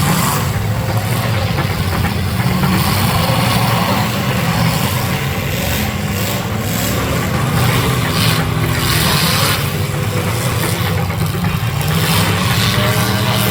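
Demolition derby car engines running loud and revving together, with short rough noisy patches around the middle and near the end.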